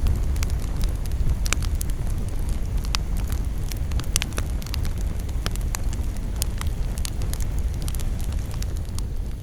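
Campfire burning: wood crackling and popping in scattered sharp snaps over a steady low rumble.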